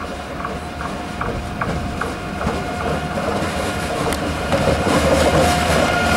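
ICE 3 (BR 403) high-speed electric train passing slowly on a shunting move, its wheels clicking over rail joints and points at an even rhythm of about two or three a second. A steady whine runs under it, and the sound grows louder in the second half as the train comes close.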